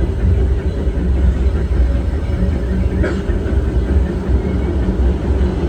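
Narrow-gauge steam train passenger car rolling along the track: a steady low rumble, with one brief sharp sound about three seconds in.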